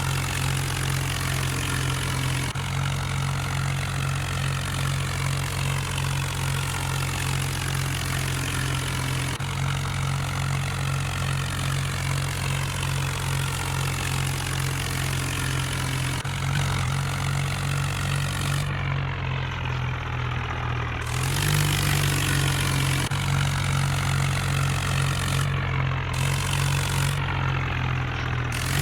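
Tractor engine running steadily; its note sags a little about two-thirds of the way through, then picks up and runs louder.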